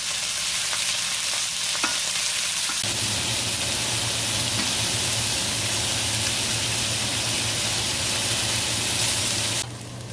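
Chicken tenderloins sizzling on a hot cast-iron grill pan, a dense steady hiss with a couple of light clicks early on. A low steady hum joins about three seconds in, and the sizzle cuts off abruptly near the end.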